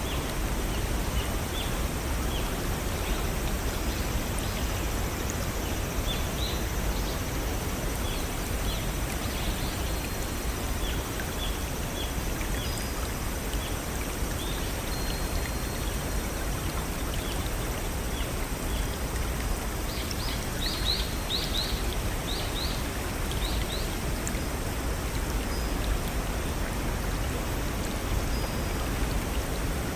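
A small waterfall and brook flowing steadily, with birds chirping in short scattered notes and a quick run of louder chirps about two-thirds of the way in.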